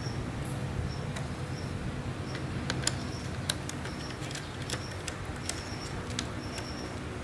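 A steady low mechanical hum, with short high chirps at one unchanging pitch coming every second or so, like a cricket, and scattered light clicks.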